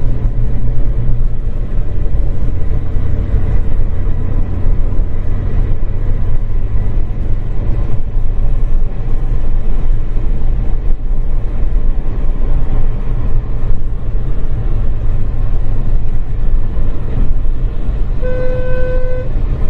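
Steady low engine and road rumble of a moving vehicle, heard from inside its cabin. A vehicle horn sounds twice near the end: one longer blast, then a short one.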